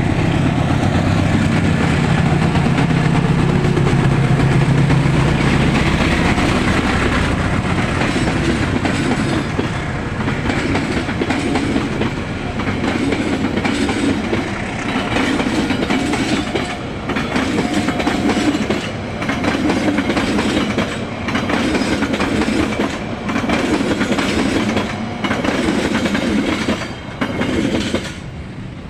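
Locomotive-hauled passenger train passing close by. A diesel locomotive's engine runs loud at first, then the coaches' wheels clack over the rail joints in a steady rhythm, a group of clacks about every two seconds, fading as the last coach goes by near the end.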